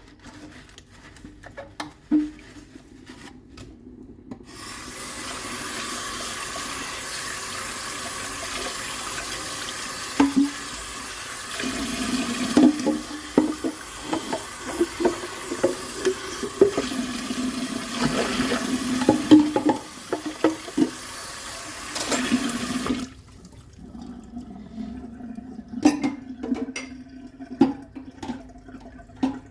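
Kitchen sink tap turned on about four seconds in and running steadily, with dishes clinking and knocking under the stream as they are rinsed; the tap shuts off abruptly a few seconds before the end, followed by a few clinks of dishes being handled and set down.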